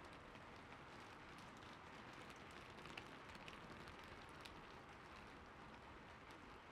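Gentle, steady rain hiss, quiet, with a few faint scattered clicks in the middle.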